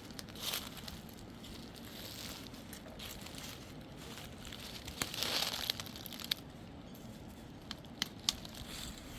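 Crinkling, rustling handling noise, swelling twice, with a few sharp clicks or snaps in the second half.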